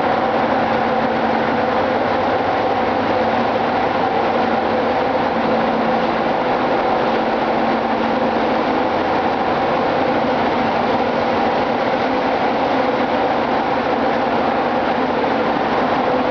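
A ship's engine-room machinery running steadily: a loud, constant drone with a few steady humming tones over it.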